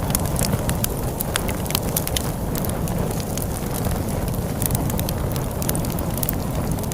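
Wood fire crackling, with frequent sharp irregular pops and snaps over a steady low rumble of storm wind.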